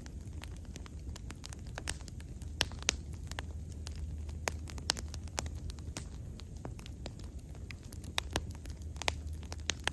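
Wood bonfire burning, with frequent irregular sharp crackles and pops over a low, steady rumble of the flames.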